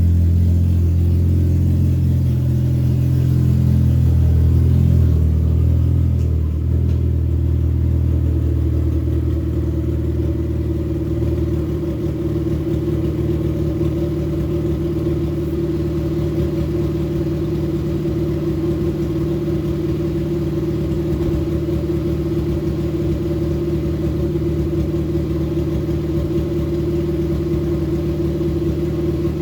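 Honda K-series inline-four (K24 block with a K20 head) running just after its first start-up. The note shifts over the first ten seconds or so, then settles into a steady idle.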